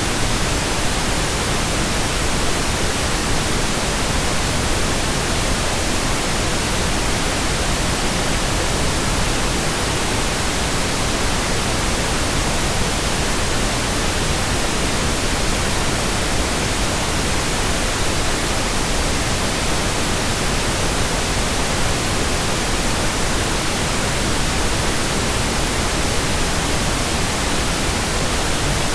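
Steady, unbroken white noise: an even hiss with no changes or other sounds.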